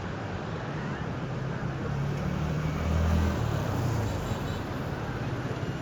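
Steady rush of sea surf and wind on a beach, with a low motor hum that swells up and fades away about midway, like a vehicle passing.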